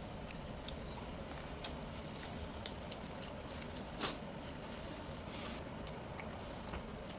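A person eating fish: soft wet chewing with a few short, sharp clicks of utensils, over a steady background hiss.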